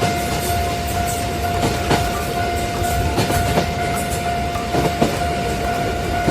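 A train passing, rumbling with irregular clacks of the wheels over the rails, while a railroad crossing's warning bell sounds as one steady ringing tone throughout.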